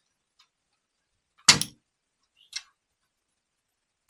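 Sharp clicks and clacks of small metal starter-solenoid parts being handled on a workbench as the old contact is slid out. One loud double clack comes about a second and a half in, and a lighter click about a second later.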